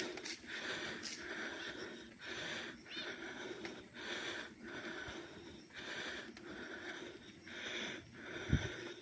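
Mountain biker's heavy breathing while riding, a breath about every second, with one low thump near the end.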